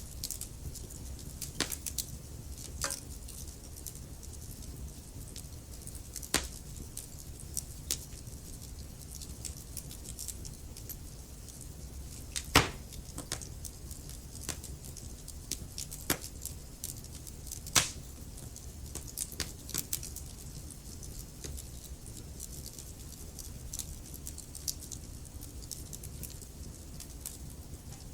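Wood fire crackling: irregular sharp pops and snaps over a steady low rumble of burning, with the loudest pops about twelve and eighteen seconds in.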